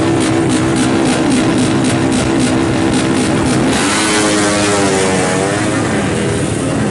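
Two-stroke racing motorcycle engine running loud at high revs with a steady, pulsing note. About four seconds in the sound turns harsher and hissier, and the pitch sweeps up and down as the engine is revved.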